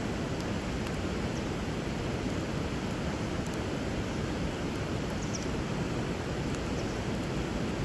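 River water running steadily, with a few faint crackles from a wood fire burning over it.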